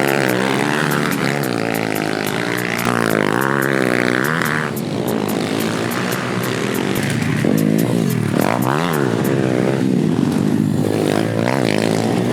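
Pit bike engine revving up and down over and over as it is ridden, its pitch climbing and dropping every second or two.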